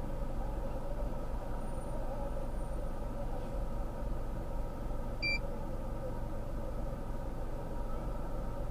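Steady motor-vehicle rumble with no change in pitch, and one short high beep about five seconds in.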